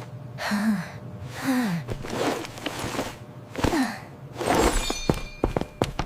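A voice breathing hard: about five breathy gasps and sighs in a row, each with a short falling pitch.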